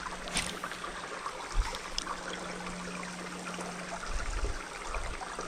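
Creek water babbling steadily over a shallow run.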